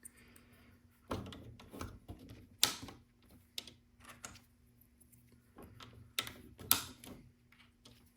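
Small plastic LEGO pieces clicking and tapping as they are handled on the build: scattered sharp clicks at irregular intervals, about seven of them louder.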